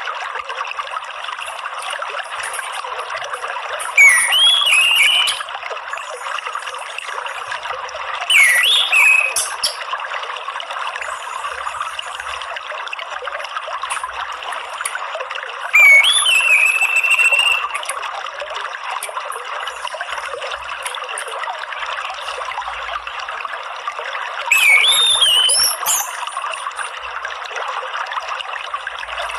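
Steady trickling stream water, with four short whistled phrases of orange-headed thrush song, each about a second and a half long, rising and falling in pitch. The song phrases are the loudest sounds.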